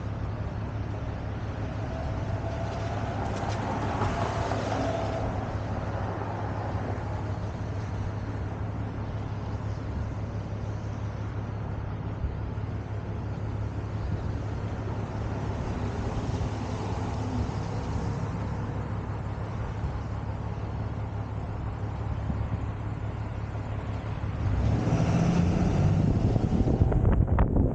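Tow truck's engine running with road noise, a steady low drone that grows louder near the end.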